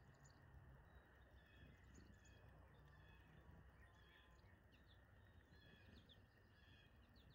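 Faint, scattered chirps of small birds over a steady low background noise.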